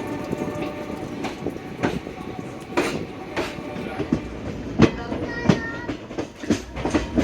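Train wheels clattering over rail joints and points, with irregular sharp clanks over a steady rumble. A brief high squeal comes about five seconds in.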